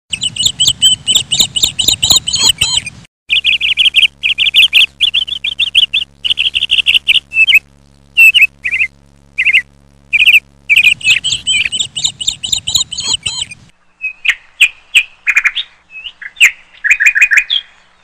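Birds chirping loudly in rapid, repeated calls and trills, broken by a few short gaps, with calls growing sparser near the end.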